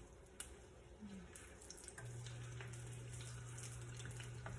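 Faint hiss of oil frying in a pan, with scattered small crackles, and a steady low hum that starts about halfway through.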